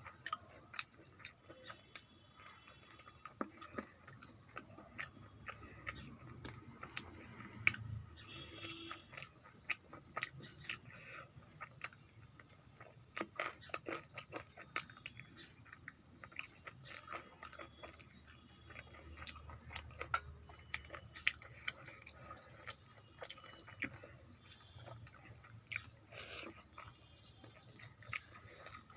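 Close-miked chewing and wet mouth clicks of a person eating rice with curry and fried vegetables, many small irregular clicks through the whole stretch.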